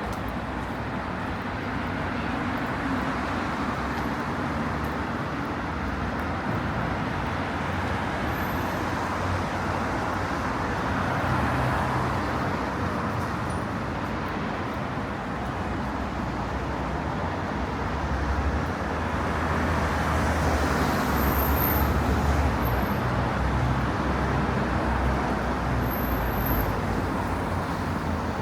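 City street traffic: a steady hum of cars and other vehicles passing, swelling as vehicles go by about twelve seconds in and again around twenty seconds in.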